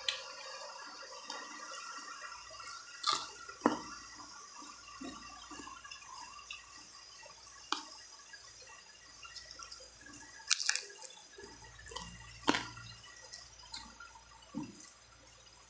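Close-miked eating of spicy chicken feet: scattered wet mouth clicks and smacks of chewing, with several louder sharp smacks spread through.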